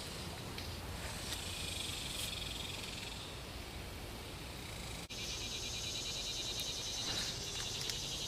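Insects chirring in a steady high, finely pulsing drone over a low background rumble. The sound drops out for an instant about five seconds in, and the insects are louder after it.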